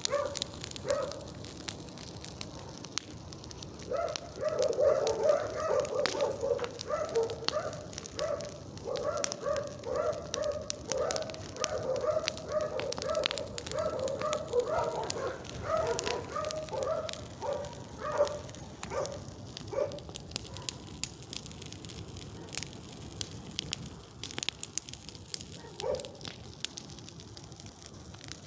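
Bonfire crackling and popping. A dog barks repeatedly from about four seconds in until about nineteen seconds, then barks once more near the end.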